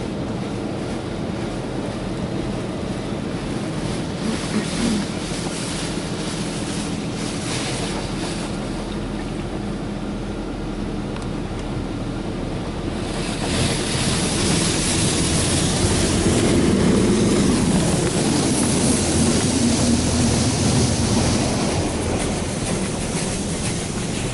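D&S 5000 touchless car wash gantry spraying water onto the car, heard from inside the cabin: a steady rush of water over a low machine hum. About halfway through the spray grows louder and hissier.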